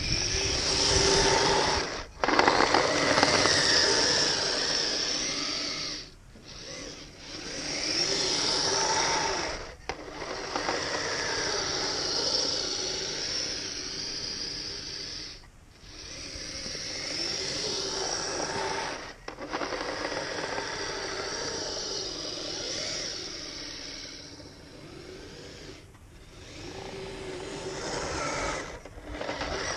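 Kyosho Blizzard RC snowcat's electric drive motors and metal tracks running in bursts, a motor whine that rises and falls with track clatter. The sound drops out briefly several times, about every four to six seconds, as the throttle is let off and applied again.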